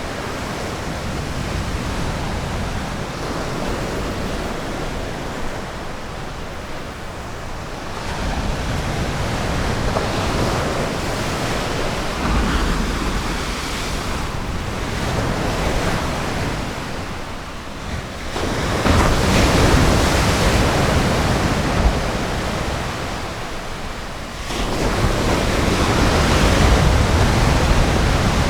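Ocean surf breaking and washing up a beach, a steady rushing hiss that swells and eases wave by wave. The strongest surges come a little past the middle and again near the end.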